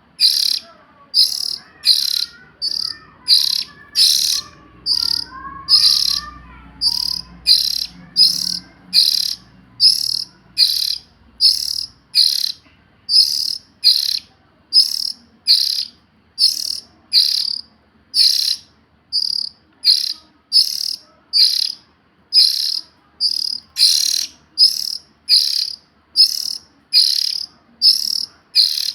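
Young oriental magpie-robin giving a high, rasping call over and over, about one and a half calls a second, very evenly spaced.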